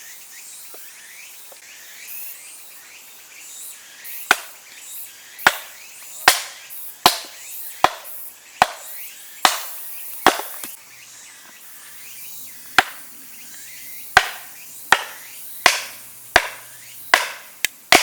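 Firewood being chopped: sharp blade strikes on wood about once a second, starting a few seconds in, with a brief pause midway.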